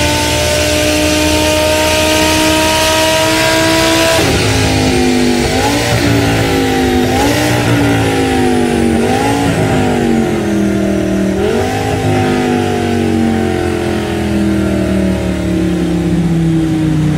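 Audi R8's V10 engine running under load on a chassis dynamometer. It revs steadily higher for about four seconds and drops sharply. It then winds down with four short blips of rising revs and sinks lower near the end.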